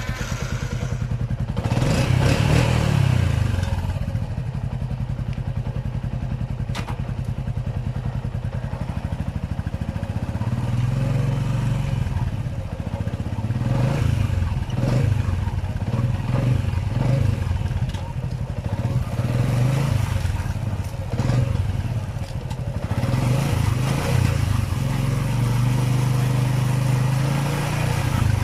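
Yamaha Sniper 135's single-cylinder four-stroke engine catching right at the start and running, revved up in repeated swells every few seconds. It starts readily after a spark plug fix for hard starting.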